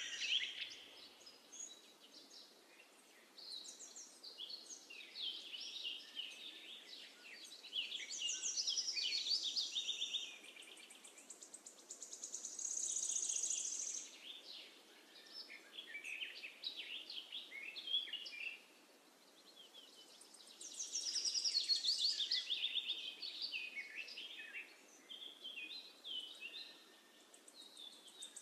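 Birds chirping and singing, quick high chirps and trills coming in bouts every few seconds over a faint steady hiss.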